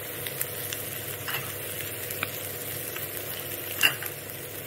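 Egg bhurji sizzling steadily in a hot kadai, with a few light clicks. The loudest click comes just before four seconds in.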